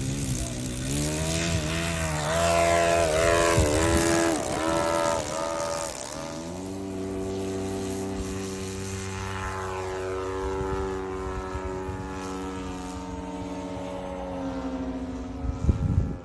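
Small engines of remote-control model planes buzzing overhead, like a lawnmower or whippersnipper. The pitch swings up and down for the first few seconds as they throttle and pass, then settles into a steadier drone. A few sharp knocks sound near the end.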